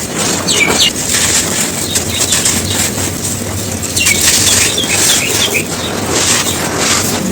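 Dry, gritty cones crumbling and crunching: a dense, steady run of crackles. A few short bird chirps come through in the background near the start and again in the middle.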